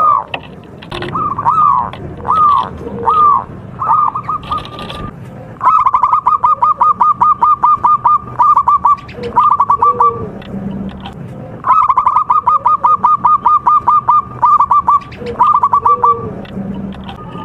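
Zebra dove (perkutut) singing. A few slow, separate coos come first, then two long runs of rapid repeated notes at about five or six a second, each closed by a short trill.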